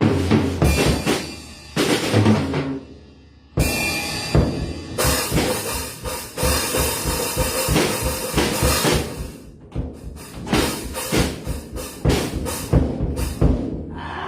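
Acoustic drum kit played freely, with bass drum and snare hits. After a short lull there is a long ringing wash of cymbals in the middle, and quick runs of strikes near the end.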